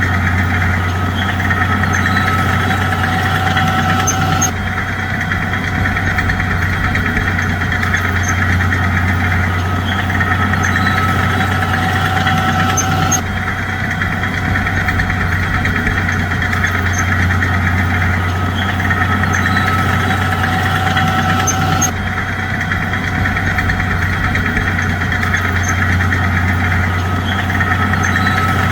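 Bulldozer's diesel engine running steadily with a constant low hum. The same stretch of sound repeats about every nine seconds, like a looped track.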